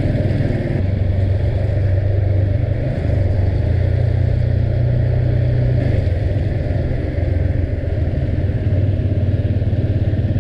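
Motorcycle engine running steadily while riding, a continuous low drone with road and wind noise.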